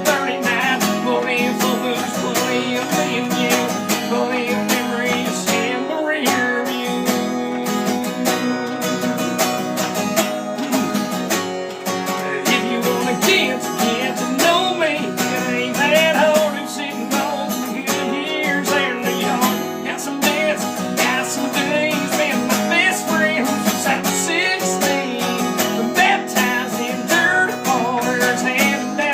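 Acoustic guitar music, strummed and plucked, in a country style.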